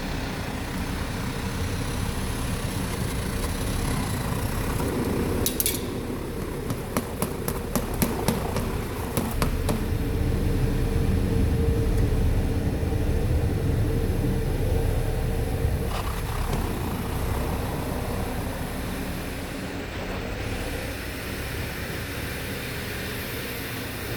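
2012 Volkswagen CC's 2.0 L four-cylinder engine running steadily, growing louder through the middle and settling back toward the end, with a run of sharp clicks about five seconds in.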